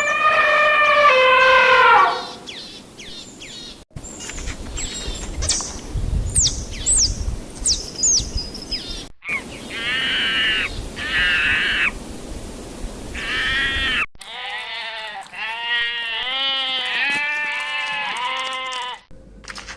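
Calls from several different animals, one clip after another with abrupt cuts. A drawn-out call opens, high short chirps follow, and near the end comes a run of repeated calls in quick succession.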